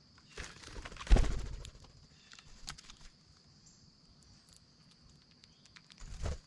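Bird wings flapping close to the microphone, with a loud thump about a second in as a bird lands or bumps nearby, and a second short flutter near the end; faint scattered clicks between.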